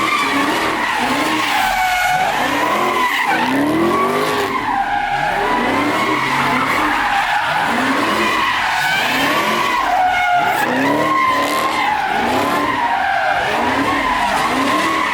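A drifting car's tyres squealing continuously with a wavering pitch, while its engine revs rise and fall over and over, about once a second.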